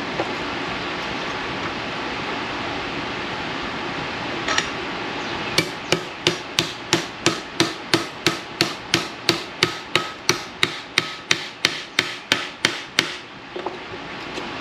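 A hammer beating a steel patch piece to bend it into an L, in a steady run of about three blows a second with a slight metallic ring. The blows start about five and a half seconds in and stop a second or so before the end, with one lone blow just before them. A steady rushing background noise runs underneath.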